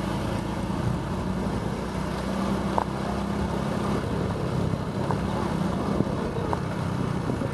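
Motorbike engine running steadily while riding through town traffic, with road and wind noise. A few brief faint tones sound in the middle.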